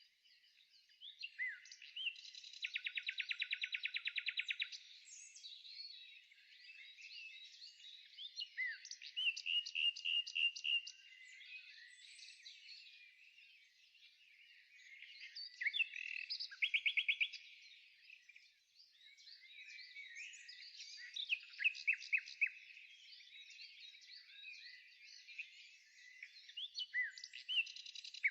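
Songbirds singing: a continuous mix of high chirps and whistles broken by several fast rattling trills, the longest lasting about two seconds near the start.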